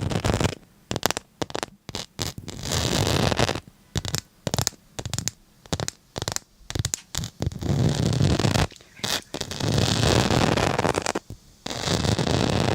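Repeated scratching strokes: many quick ones, then longer runs lasting a second or two, with brief gaps between.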